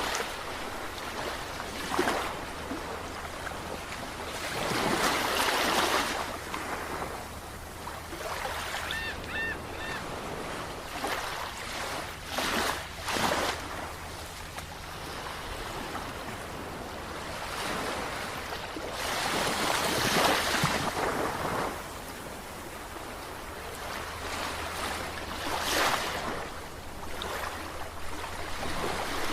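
Sea waves washing in and breaking in repeated surges, each swell rising and falling away. A few short high calls sound about nine seconds in, over a faint low steady hum.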